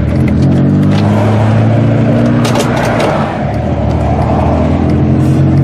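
Car engine running steadily as the car is driven slowly; the engine has a blown head gasket and is knocking, by the driver's account.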